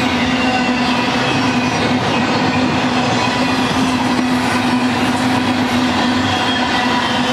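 Loaded double-stack intermodal well cars rolling past close by: a steady, loud rumble and clatter of steel wheels on the rails, with a steady droning tone running through it.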